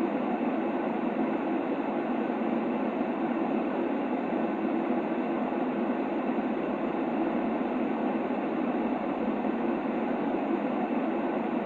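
Steady white noise played as a baby sleep sound: an even, unchanging hiss, fuller in the lows than in the highs.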